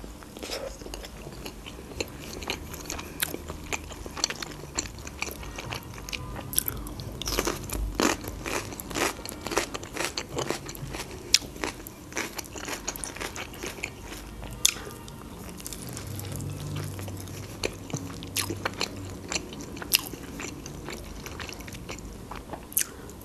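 Close-up biting and chewing of fried khinkali (Georgian dumplings), the fried dough crunching in many short, sharp crunches and mouth clicks.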